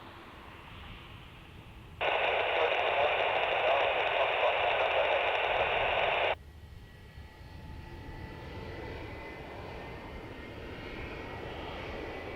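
An airband radio receiver hissing loudly for about four seconds as a transmission is keyed without a voice, switching on and off abruptly. Afterwards a faint jet engine whine is heard, slowly rising in pitch.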